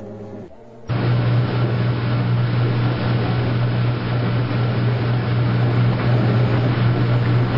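Washing machine running: about a second in, a loud steady hum with a rushing noise switches on abruptly, and it cuts off just as abruptly near the end.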